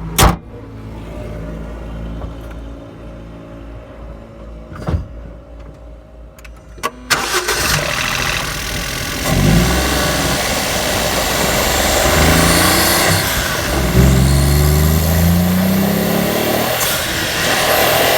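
Turbocharged Suzuki Alto's small three-cylinder engine, fitted with a cold air intake and an aftermarket blow-off valve, running quietly with a few sharp clicks. About seven seconds in it gets much louder, with loud intake and air noise, and the revs rise several times under acceleration.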